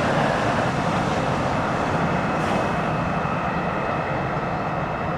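Jet engines of a Boeing 757-200 airliner on landing approach, a steady rushing noise with a faint high whine.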